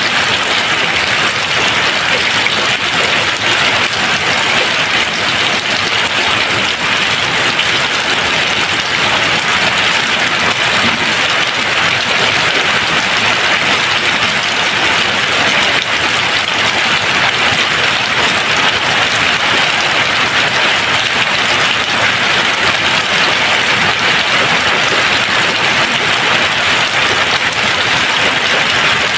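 Steady, even rain, a constant hiss of falling drops with no thunder.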